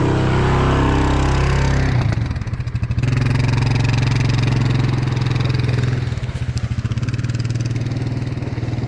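Engine of a motorised machine running steadily at a low pitch, revving slightly in the first couple of seconds.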